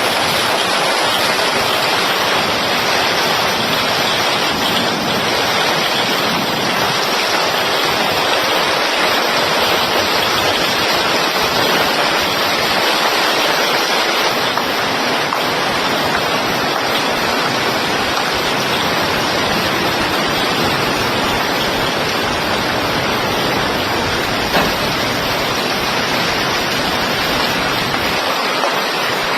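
Steady, loud rushing of water, even and unbroken, with one brief knock about three-quarters of the way through.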